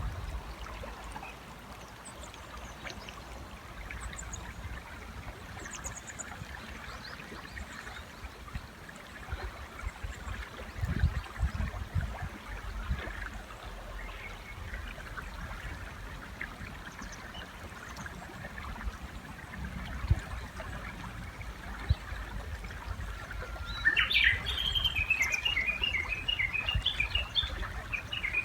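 Japanese bush warbler calling over a flowing river: about 24 seconds in, one held whistle leaps up into a fast run of repeated notes, its 'tani-watari' valley-crossing call. Before that only the river's steady rush and faint high chirps of small birds are heard.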